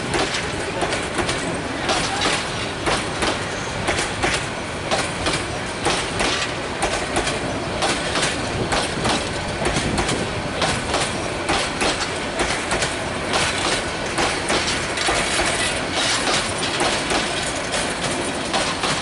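Passenger train coaches rolling past, their wheels clacking over the rail joints in a quick, continuous run of knocks over the steady rumble of the wheels.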